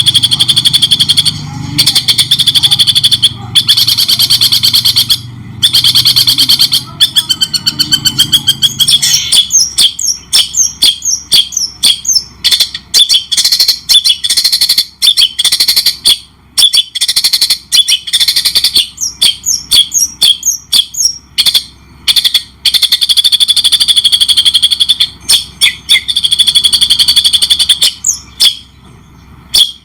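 Loud songbird song recorded as a masteran for tutoring caged birds: dense, sustained high trills for the first several seconds, then a long run of quick separate chirps and sweeping whistled notes, then dense trills again, fading out near the end.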